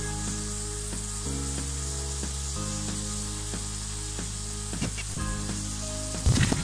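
Ash gourd and shrimp sizzling steadily as they are sautéed dry in spices in a wok, with a quick burst of sharp clacks just before the end. Soft background music with held low notes runs underneath.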